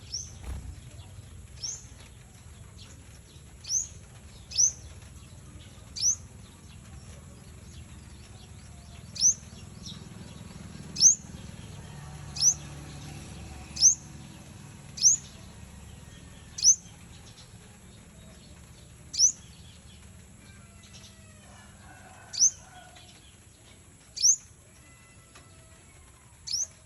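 A bird giving short, sharp, high chirps, about fifteen of them, spaced irregularly one to three seconds apart, over a faint low background hum.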